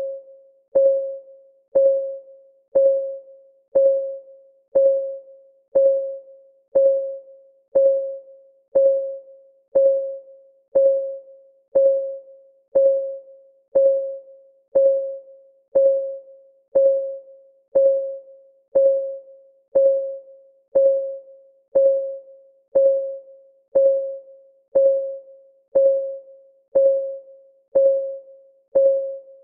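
Countdown timer's clock-ticking sound: a short, pitched tick about once a second, each one fading quickly.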